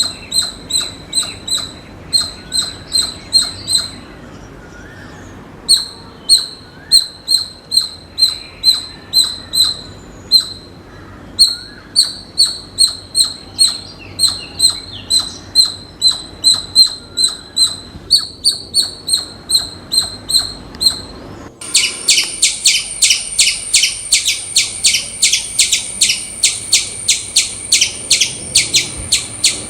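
Squirrel chirping alarm calls: short, high chips repeated about four a second in runs of a few seconds with brief pauses. About two-thirds of the way through, a faster, denser run of chirps starts abruptly.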